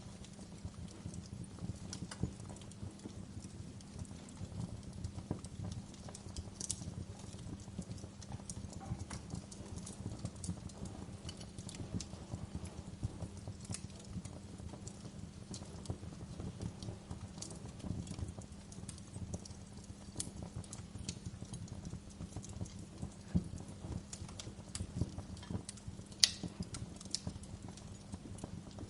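Wood fire burning in a fireplace: a low steady rumble of the flames with irregular crackles and pops, one sharper pop about 26 seconds in.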